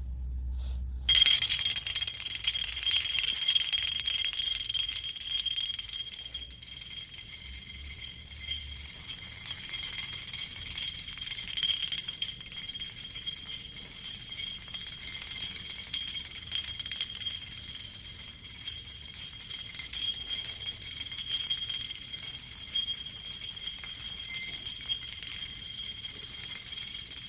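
A long chain of Resilmount A237 sound isolation clips toppling like dominoes: each clip knocks over the next, making a rapid, continuous metallic clinking and jingling with high ringing tones. The clatter starts suddenly about a second in and keeps going for over twenty seconds.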